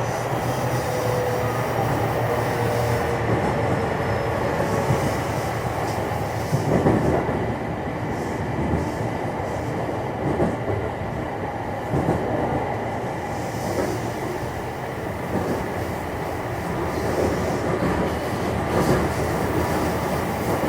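Running noise inside a JR West 227 series electric motor car (Hitachi IGBT VVVF inverter): a steady wheel-on-rail rumble with occasional knocks over rail joints. A faint motor whine in the first few seconds fades out.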